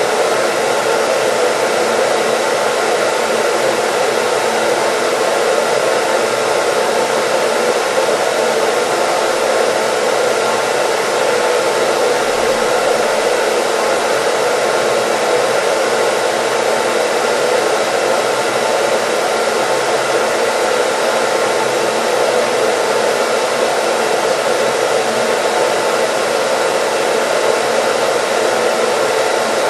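Hair dryer running steadily as white noise: an even, unchanging rush of blown air with faint steady motor tones.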